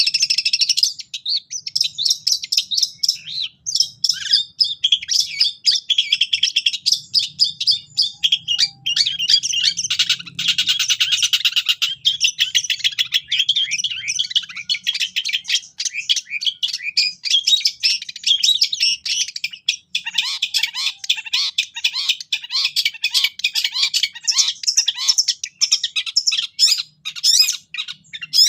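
Long-tailed shrike singing a fast, unbroken chattering song full of mimicked calls of other birds. About two-thirds of the way through, a run of about ten short rising notes, lower in pitch, sounds under the chatter.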